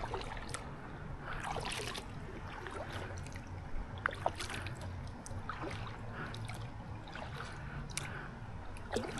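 A paddle stroking through the water beside a solo canoe, with water swishing and dripping off the blade about every two seconds. A couple of sharp clicks come about four seconds in.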